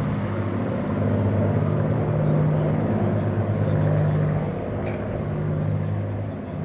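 Low, steady drone of aircraft engines, swelling and easing in loudness over a few seconds.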